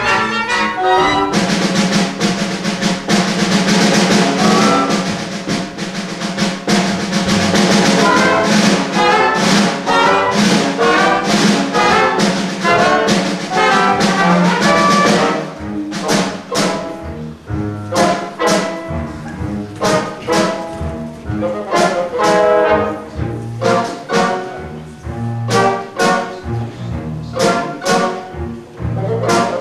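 Brass-led pit band playing a lively instrumental dance section of a show tune, with trumpets and trombones over percussion. About halfway through the full, sustained sound drops to a run of sharp separate percussive hits with short brass chords between them.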